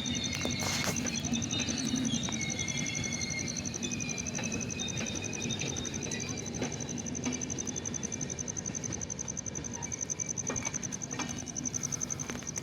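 Insects, cricket-like, trilling steadily in one high pulsing tone, over a low steady rumble from the train.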